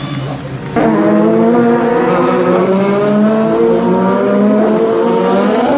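Racing car engine at full throttle, its pitch climbing slowly and steadily as it pulls through a gear. The engine comes in abruptly about a second in.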